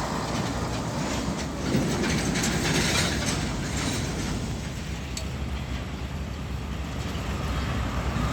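Heavy truck passing close by on the road: steady tyre and engine rumble with rattling and clatter from the truck's body and load, loudest in the first few seconds.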